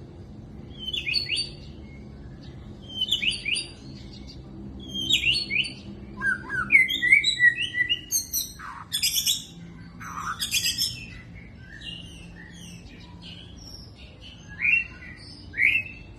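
White-rumped shama (murai batu) singing: short phrases of quick upward-sweeping whistles and chirps every couple of seconds, rising into a longer, denser burst of varied song in the middle, then a pause before two more short phrases near the end.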